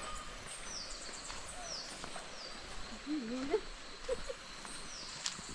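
Birds calling in forest: a run of short high notes, each falling in pitch, about half a second apart in the first two and a half seconds and once more near the end, with some lower wavering calls about three to four seconds in.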